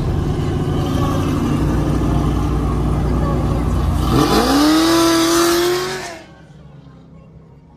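Procharged Camaro ZL1 V8 accelerating hard, heard from inside the car. About four seconds in, a loud whine climbs sharply in pitch and holds high as the car pulls. The sound drops away suddenly about six seconds in.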